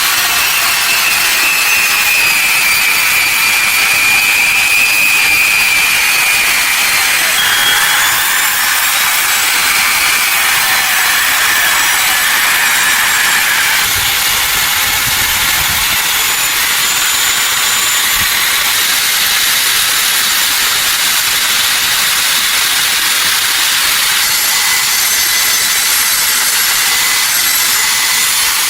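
A power tool running steadily against metal, a loud rasping hiss with a faint whine that slides lower in pitch over the first several seconds.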